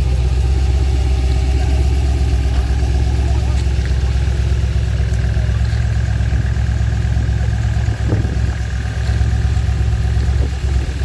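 Lola T70 race car's V8 engine idling steadily, its level dipping briefly twice in the second half.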